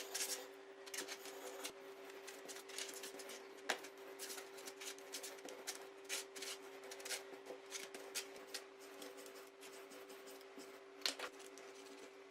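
Irregular scraping, rubbing and clicking of hand work on small parts, over a steady low hum.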